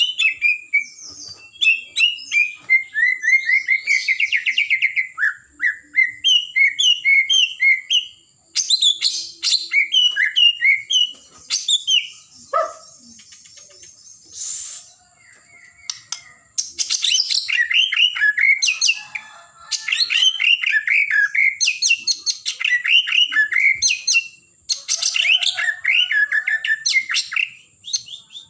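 White-rumped shama (murai batu) singing at full volume: long, fast, varied phrases of rapid repeated whistles and chattering notes, broken by short pauses. A faint steady high-pitched tone runs underneath.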